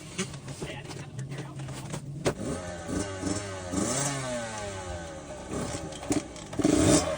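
Dirt bike engines revving up and down. The revving sets in about two seconds in, after a steady engine hum and a few knocks and clanks.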